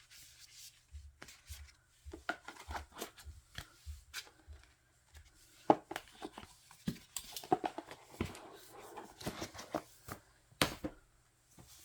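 Hands handling the paper and card inclusions of a K-pop album: irregular rustles, scrapes and clicks of photocards, poster and packaging, with a few sharper taps.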